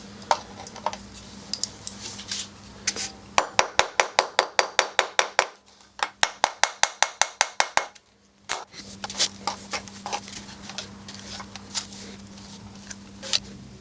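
Hand tools clinking and scraping against a metal exhaust baffle while it is worked loose from the silencer, with two runs of rapid, even metallic clicks, about seven a second, in the middle.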